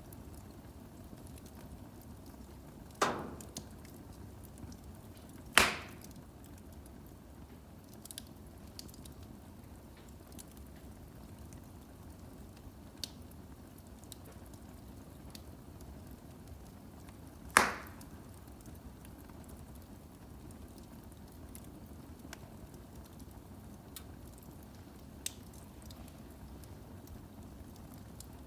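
Firewood burning in a fireplace: a low, steady rush of the fire broken by sharp pops from the wood. There are three loud pops, two close together early and one about two-thirds of the way through, with fainter crackles in between.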